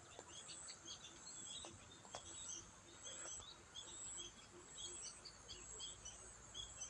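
Faint countryside ambience: small birds chirping and twittering, over a thin steady insect whine and a soft low note repeating about twice a second.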